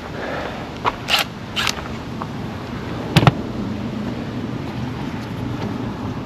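A few short clanks and scrapes of hand tools and parts being handled, the loudest about three seconds in, over a steady low hum.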